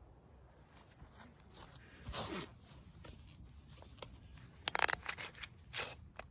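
Short rustling and scraping handling noises: a falling sweep about two seconds in, then a quick run of louder scraping strokes near the end.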